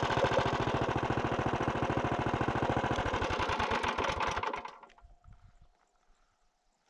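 Fully built Tillotson 212 single-cylinder four-stroke minibike engine idling with an even, rapid beat, then shut off about four and a half seconds in and dying away to near silence.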